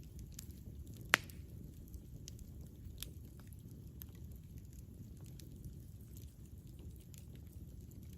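Campfire burning with a steady low rumble and scattered small crackles, and one loud sharp pop about a second in.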